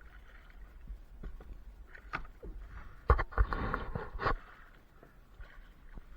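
Knocks and handling noise on a kayak while a fish is being fought: a few light knocks, then about three seconds in a loud second-long burst of scraping and rattling that starts and ends with a sharp knock. A low rumble runs underneath.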